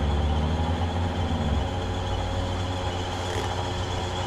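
Steady low mechanical hum, its deepest part dropping away about one and a half seconds in while a lighter hum carries on.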